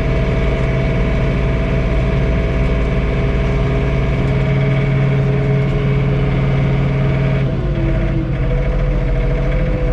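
John Deere 3046R compact tractor's three-cylinder diesel engine running steadily, heard from inside the closed cab. About seven and a half seconds in, its tone changes.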